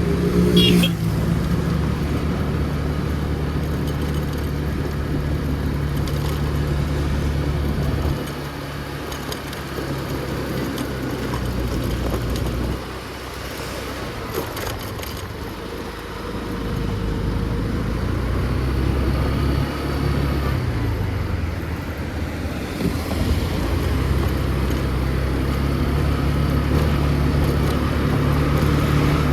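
Motor scooter engine running steadily under way, its note shifting down and up several times as the throttle changes, with a falling note around twenty seconds in. A brief, louder pitched sound comes about a second in.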